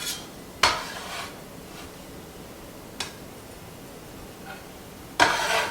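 Kitchen handling sounds at a cutting board: a sharp knock about half a second in, a small click around three seconds, and a brief burst of handling noise near the end.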